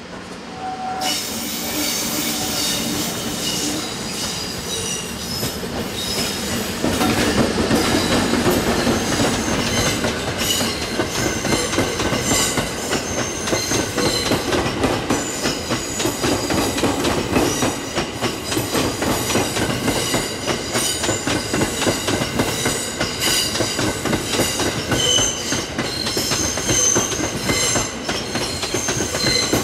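EF64 electric locomotive hauling a train of E217 series cars past, the wheels squealing in high-pitched shrieks and clicking over the rail joints. It gets louder about a second in and again several seconds later as the cars come alongside.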